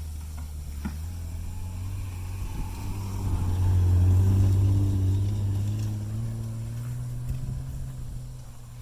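1994 BMW 325i's inline-six engine running under throttle, getting louder to a peak about four seconds in as it passes, then fading, with its pitch creeping slowly upward.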